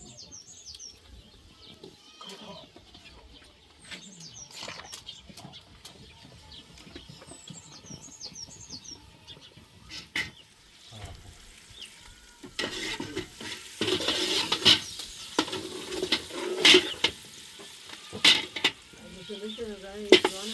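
Food sizzling in a pan as it is stirred, with clatter of a utensil against the pan, getting louder from about halfway through. Small birds chirp in short bursts during the first half.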